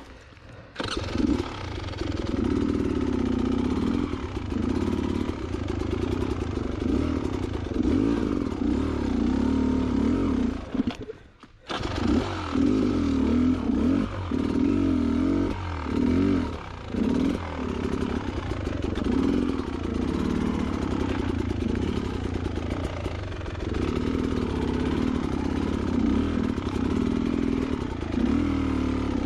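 Two-stroke single-cylinder dirt bike engine (Beta Xtrainer 300) riding a rough trail, its note rising and falling with the throttle, with chassis clatter. The sound comes in abruptly about a second in and drops out briefly near the middle.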